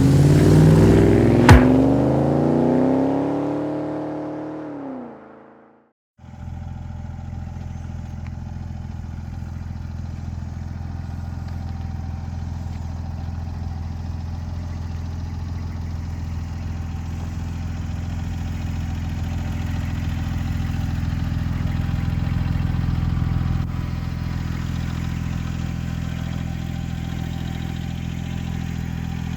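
Porsche 996 911 Turbo's twin-turbo flat-six: a rev falls away over the first few seconds, with one sharp crack about a second and a half in. After a brief silence the engine runs steadily at low revs.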